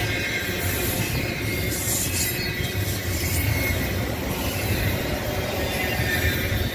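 Double-stack intermodal freight cars rolling past close by: a steady rumble of steel wheels on the rails.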